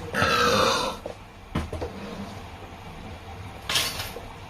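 A person burping loudly once, lasting about a second. A short knock and a brief hiss follow later.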